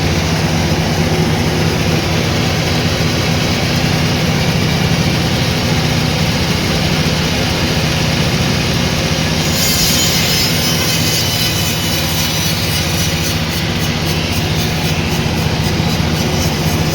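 Sawmill machinery running loudly and steadily with a low, even hum. About halfway through, a high hiss with a fast flutter joins in.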